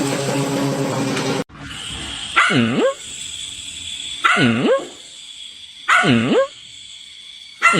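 A wavering pitched sound cuts off abruptly about a second and a half in. A dog then barks four times, about every second and three-quarters, each bark a drawn-out call that dips in pitch and rises again.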